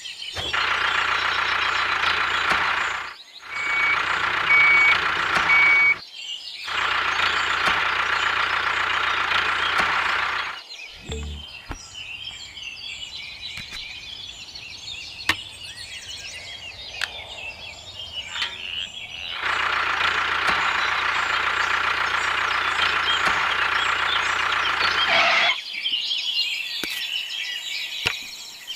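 A small motor runs with a steady whir in several stretches that start and stop abruptly. Between them, about 11 to 19 seconds in, a quieter stretch holds bird chirps and outdoor background noise.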